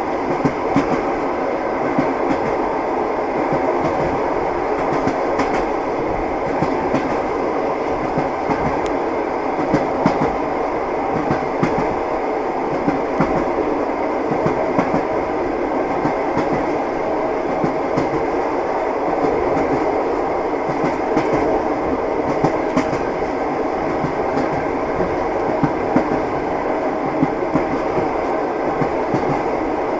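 Passenger train running, heard from inside the carriage: a steady rumble with the clack of the wheels over rail joints as short, sharp knocks scattered through it.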